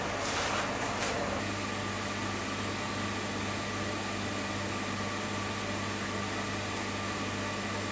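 Steady electric fan hum with an even hiss, plus a few faint metallic knocks in the first second or so.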